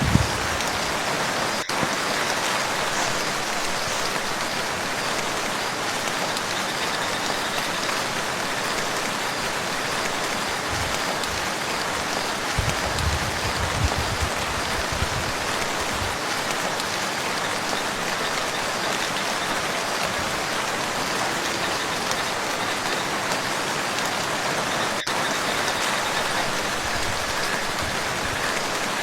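Steady, dense rain falling on a lake's surface, a continuous hiss of drops, with a brief low rumble about halfway through.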